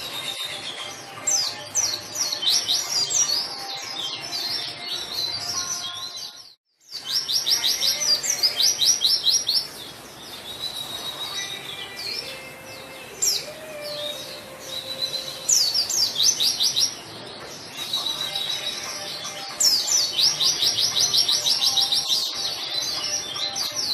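White-eye (pleci) singing continuously: a fast, chattering song of high, rapid trills and repeated notes in bursts, broken by a brief silence about six and a half seconds in.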